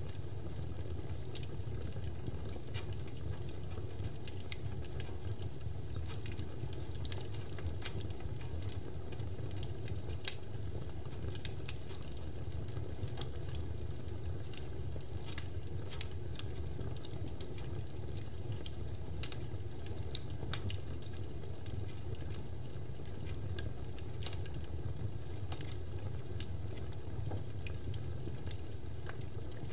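Easter bonfire burning: the wood crackles with many sharp, irregular pops over a steady low rumble.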